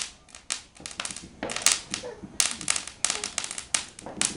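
Fireworks and firecrackers going off, a rapid, irregular crackle of sharp pops coming in clusters.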